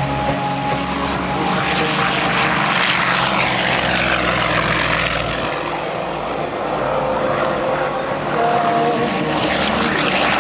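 Propeller aircraft flying past, a steady engine roar with a sweeping, phasing whoosh that dips and rises around the middle as it passes.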